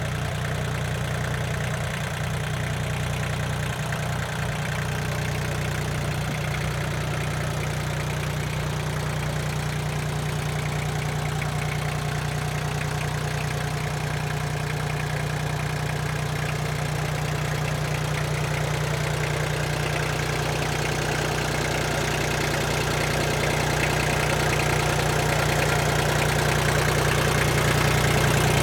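Iseki TL2500F compact tractor's diesel engine idling steadily, growing a little louder near the end.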